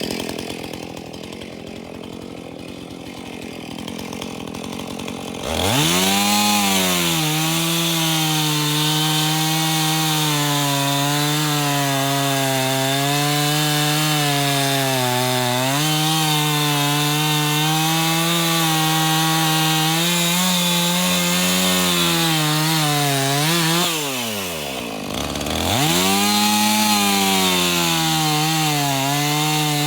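Husqvarna Rancher two-stroke chainsaw, its chain dull and in need of sharpening by the owner's account. After a quieter start, it is throttled up about five seconds in and runs at full revs while cutting wood, the pitch wavering under load. Near the end the revs fall away, rise again for a second burst, and drop off once more.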